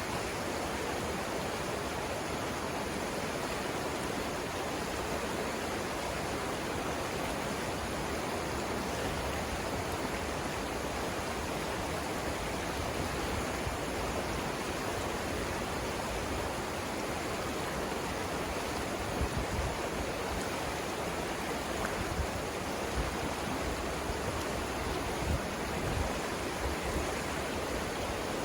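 Savannah River rushing through its rapids: a steady, even rush of flowing water, with a few low bumps in the last third.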